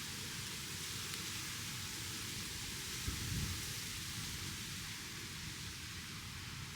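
Steady hiss of falling precipitation, with a single low thump about three seconds in.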